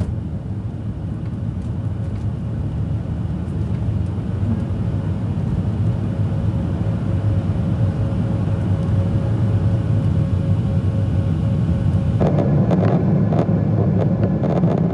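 Boeing 737-700's CFM56-7B jet engines at takeoff power: a steady low rumble that grows slowly louder, with a faint steady hum. About twelve seconds in, a rougher, louder rushing noise with rattling joins it.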